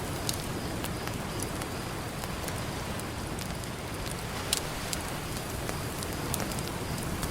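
Campfire crackling, with scattered sharp pops and one louder snap about four and a half seconds in, over a steady wash of ocean surf.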